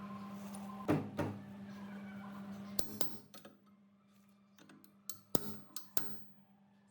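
A steady hum with sharp clicks and knocks, likely from work on the machine's parts. The hum stops about three seconds in, leaving a few separate clicks near the end.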